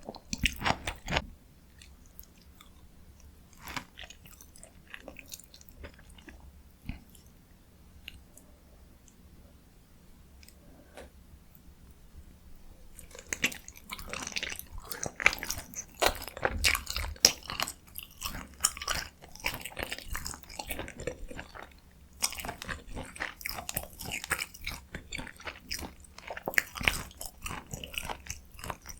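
Close-miked mouth sounds of eating dakgalbi, spicy stir-fried chicken: wet chewing and smacking. A quieter stretch with only occasional small clicks comes after the first second, and from about halfway through the chewing turns dense again and runs on.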